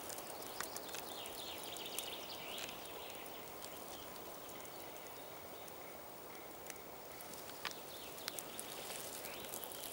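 Faint woodland ambience: distant birds chirping, with a few small clicks and snaps of twigs.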